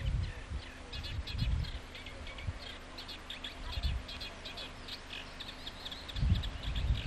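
Small birds chirping, many short high calls in quick succession, with low thumps and rumbles of wind or handling on the microphone now and then, strongest near the end.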